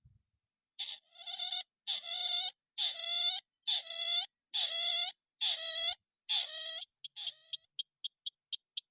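Rail calls (burung tikusan): a run of about eight harsh, drawn-out notes, each just under a second, then quickening into short sharp notes near the end.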